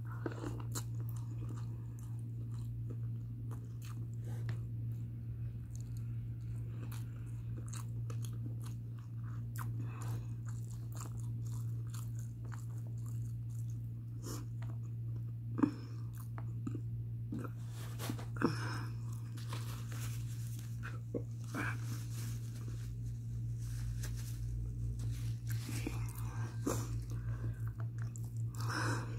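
Close-up chewing and mouth sounds of a person eating mutton biryani by hand: soft irregular crunches, clicks and smacks, with a couple of sharper clicks a little past the middle. A steady low hum runs underneath.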